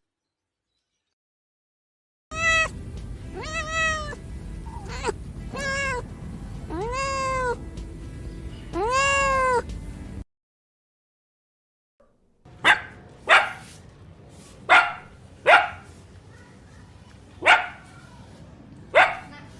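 A domestic cat meowing about six times, each meow rising and then falling in pitch. After a short silence, a different animal gives about eight short, sharp calls spaced irregularly.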